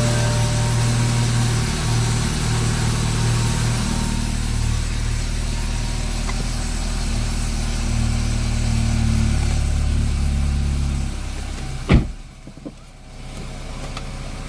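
BMW 320i engine idling steadily on a cold start, its low running tone stopping about eleven seconds in, followed by a single sharp thump.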